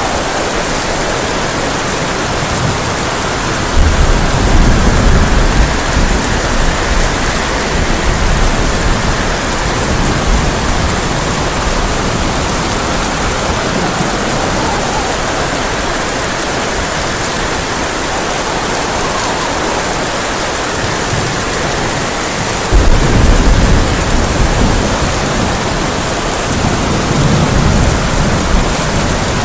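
Heavy rain falling on a tin roof as a steady hiss. Low thunder rumbles come in about four seconds in and again about twenty-three seconds in, each lasting a few seconds, with a smaller rumble near the end.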